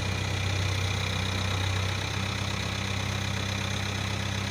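Tractor engine running steadily at low speed, dropping slightly in level about two seconds in.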